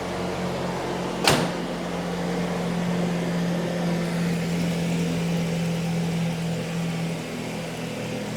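A 1930 Ford Model A's four-cylinder flathead engine idling steadily, with one sharp click about a second in.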